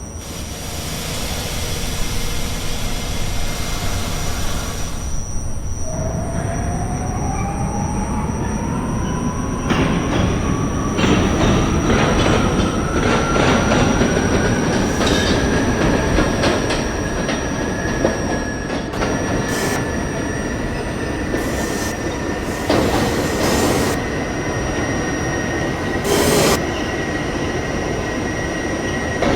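R68A subway car pulling out. A hiss fills the first five seconds, then the traction motors' whine rises steadily in pitch as the train accelerates and levels off about two-thirds of the way through. From about a third of the way in, the wheels clatter over rail joints.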